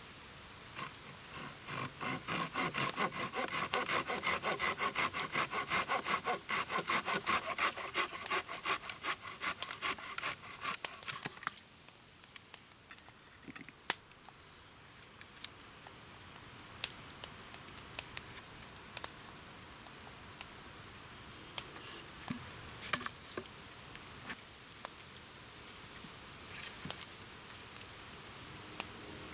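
Hand saw cutting through a wooden branch at a marked point, in quick regular strokes for about ten seconds, then stopping abruptly once the piece is cut. Scattered light clicks and knocks from handling the wood follow.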